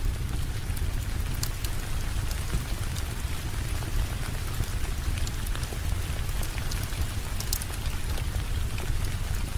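Steady rainfall with a deep low rumble, and sparse sharp crackles and pops from a wood fire in a fireplace.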